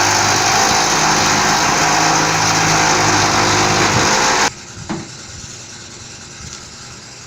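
Reciprocating saw (Sawzall) running steadily as it cuts through the truck bed's rails, then stopping abruptly about four and a half seconds in.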